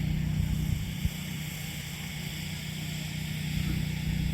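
An engine running steadily at a low, even pitch, with a single short knock about a second in.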